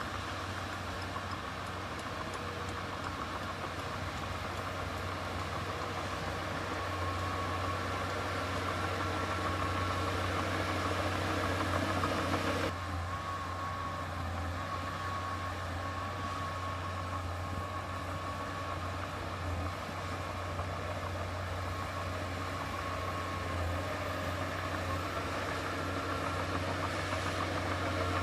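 Diesel engine of heavy earthmoving machinery running steadily: a strong low drone with a thin whine above it. The sound changes abruptly about halfway through.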